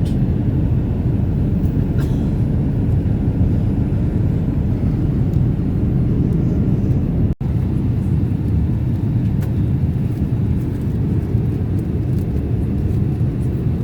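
Steady low rumble of engine and airflow noise inside a Boeing 787 Dreamliner's passenger cabin in flight, with an instant's dropout about halfway through.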